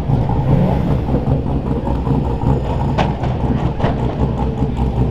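Car engines running with a steady low exhaust rumble. Two short sharp cracks come about three and nearly four seconds in.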